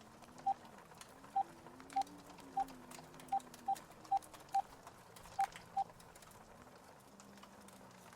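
Phone keypad beeping as a number is dialed: about ten short beeps of the same pitch at uneven intervals, then stopping. Under it runs a faint, low, wavering howl of blizzard wind.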